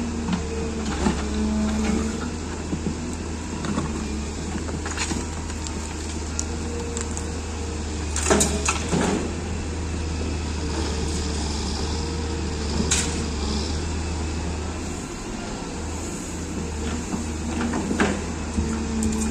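Cat M318 wheeled excavator's diesel engine running steadily while it works, with a few sharp clanks, the loudest about eight and nine seconds in, and more near thirteen and eighteen seconds.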